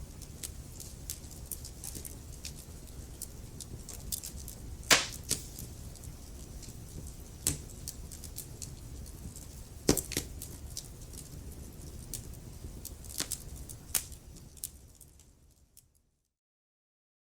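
Wood fire crackling: a steady low rumble of flames with frequent sharp snaps and pops, the loudest about five and ten seconds in. The sound fades out near the end into silence.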